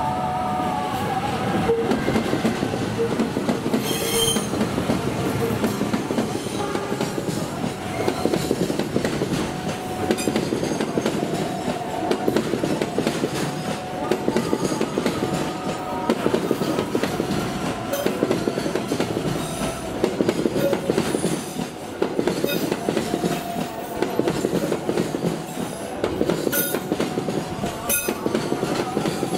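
A diesel-hauled container freight train passing close by. The locomotive goes by at the start, then loaded flat wagons roll past with their wheels clacking over rail joints in a regular rhythm, and a thin wheel squeal comes and goes.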